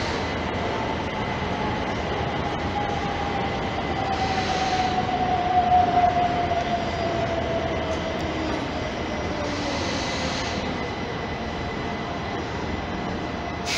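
Electric passenger train running through the station, its motor whine slowly falling in pitch and loudest about six seconds in, over steady rail noise.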